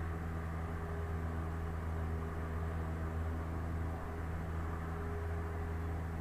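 Cessna 172's piston engine and propeller droning steadily in cruise flight, an even low hum with airflow noise over it.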